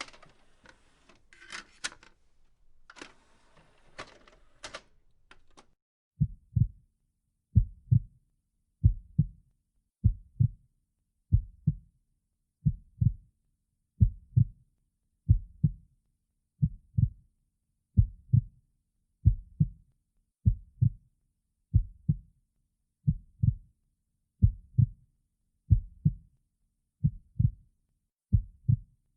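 Slow, even double thumps in a heartbeat rhythm, about one beat every 1.3 seconds, starting about six seconds in. Before them there are only faint scattered clicks and rustling.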